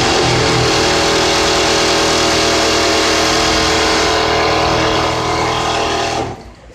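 Richpeace automatic template sewing machine running at a steady high speed as it stitches, a constant machine whir. It stops abruptly about six seconds in.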